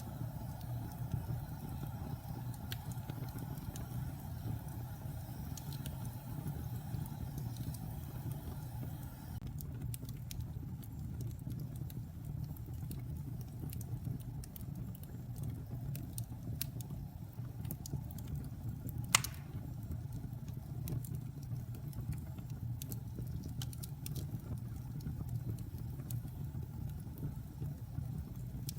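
Wood fire in a fireplace burning with a steady low rush and scattered crackles, with one sharp pop about two-thirds of the way through.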